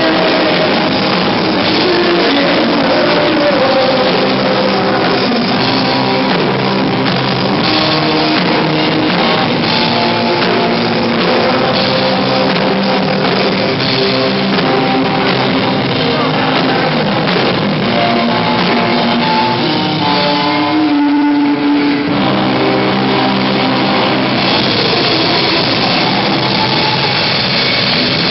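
A rock band playing live, with guitars and drums filling the sound. Near the three-quarter mark the band briefly drops out, leaving one held note, then comes back in full.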